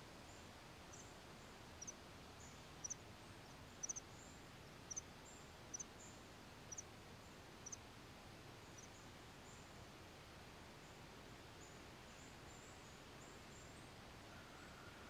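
Faint outdoor background hiss with a small bird's short, high chirps, about one a second for several seconds near the start, then only the hiss.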